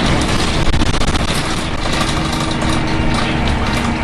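Optare Tempo single-deck bus heard from inside while under way: engine and road noise with constant rattling clatter, and a steady howling tone from the engine that comes back in about halfway.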